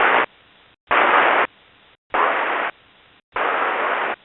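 Four short bursts of radio static hiss, each about half a second long and about a second apart, cutting in and out as the transmission opens and closes.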